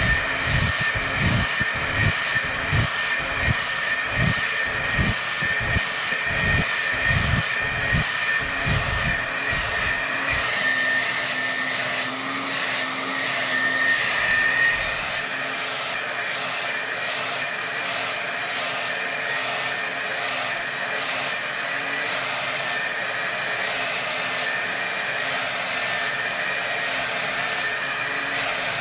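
Hair dryer running at full power: a steady rush of air with a high whine. For about the first ten seconds a low rumble pulses under it roughly twice a second, then it settles into an even blow.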